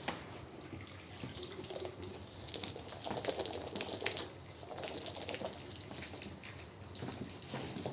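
Water running and splashing on a carpet being washed, in an uneven wash of sound with irregular surges.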